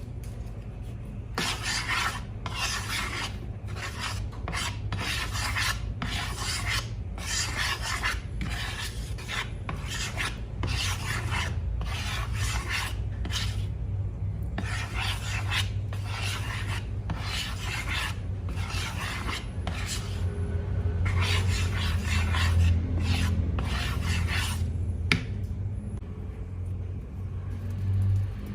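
Repeated rasping strokes of something being rubbed or scraped by hand, roughly one stroke a second, starting about a second and a half in and stopping a few seconds before the end, over a low steady hum.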